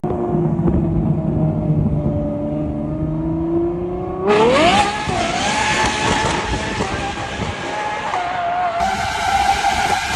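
V12 car engine running hard: a steady drone that sags slightly in pitch, then about four seconds in it revs up sharply to a high, steady scream held at high revs.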